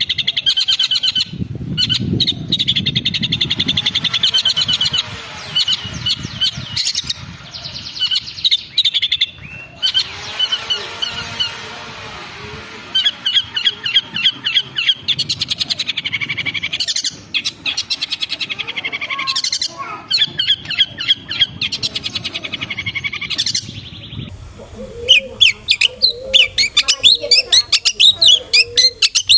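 Long-tailed shrike (cendet) singing a fast, chattering song of rapidly repeated chirps and trills, turning to louder, evenly paced notes about five seconds before the end.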